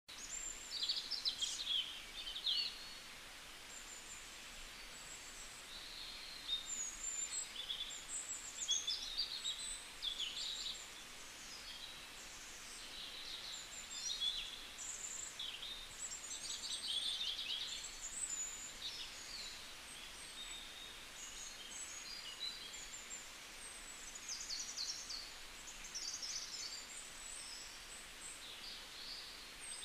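Birds chirping and twittering: many short, high calls and quick trills follow one another throughout over a faint steady hiss.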